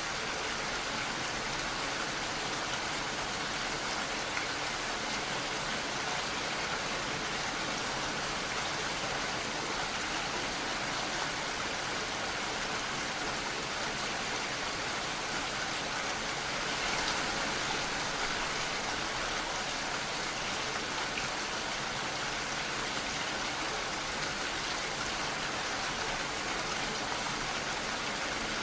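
Steady rain falling, an even hiss of many drops with no single drop standing out, swelling slightly about two-thirds of the way through.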